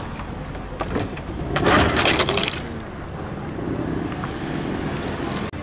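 The underside of a slammed car scraping and grinding on the ground as it drives out, a harsh rasp lasting about a second, with car engines running underneath.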